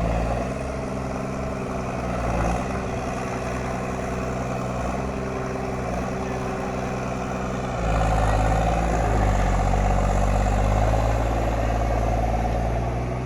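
Case IH JX40T tractor engine running steadily. It grows louder and heavier about eight seconds in.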